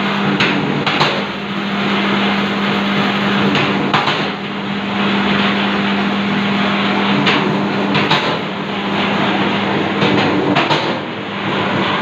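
K-45-21 cable insulation stripping machine running, stripping cable: a steady motor hum and mechanical noise, with a few short knocks and clicks scattered through.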